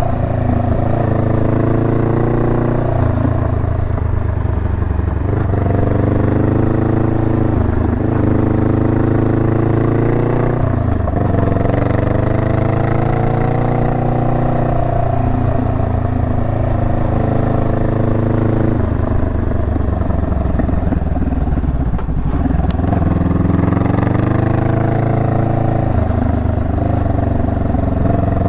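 Honda Rebel 500's parallel-twin engine running under way. Its pitch rises and falls every few seconds as the throttle opens and closes and the gears change.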